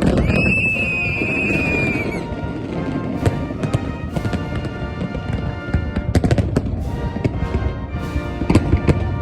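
Fireworks going off in a string of sharp bangs and crackles, with music playing throughout.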